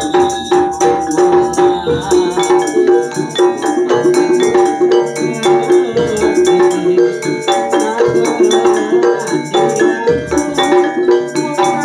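Javanese gamelan ensemble playing a piece, with quick, evenly paced strokes on metal keyed instruments over sustained ringing tones.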